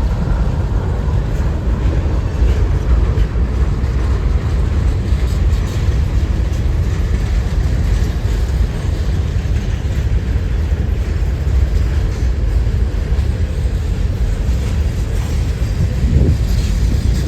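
A train passing on the rails, with heavy wind noise on the microphone.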